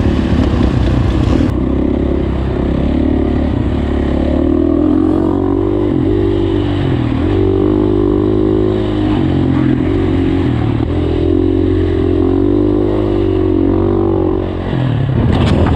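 Motocross dirt bike engine running hard as it is ridden, its revs rising and falling repeatedly. The revs drop briefly near the end, followed by a few sharp clacks.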